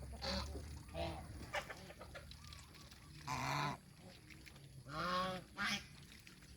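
Domestic geese honking, several separate calls in a row, two louder and harsher ones about halfway through and about five seconds in.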